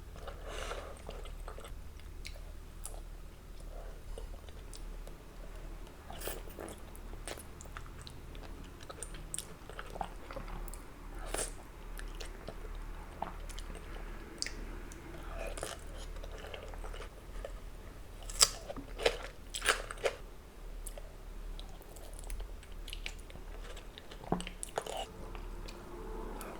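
Close-miked eating of soft-boiled eggs: biting and chewing with scattered wet mouth clicks, and three louder sharp clicks in quick succession about two-thirds of the way through.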